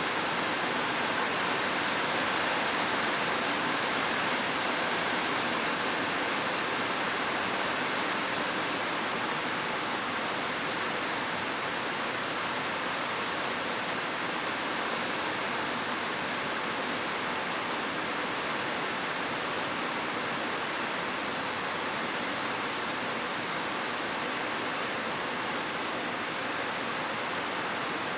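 Heavy rain falling steadily, an even, unbroken hiss with no distinct drops or thunder.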